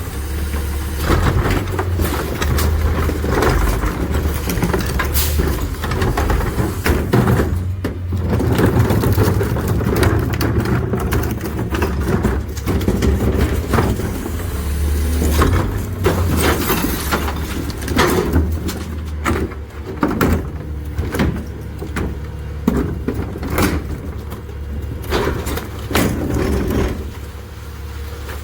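McNeilus rear-loader garbage truck running, its hydraulic packer compacting a load of recycling with a steady low drone. Frequent clanks and knocks from the material and packer come through, thickest in the second half.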